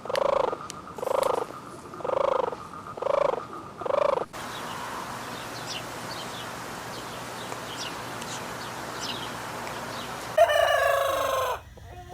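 Domestic fowl calling: five short, arched calls about a second apart, then a steady noisy background with faint small-bird chirps. Near the end comes one loud, longer call of about a second.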